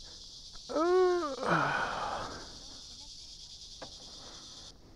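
A person's drawn-out wordless vocal sound, rising then falling in pitch, that trails off into a breathy exhale dropping lower, over the steady high buzz of insects, which cuts off near the end.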